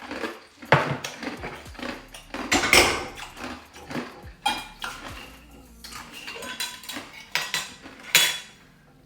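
Dishes and cutlery handled and clattering, with irregular knocks and several short ringing clinks.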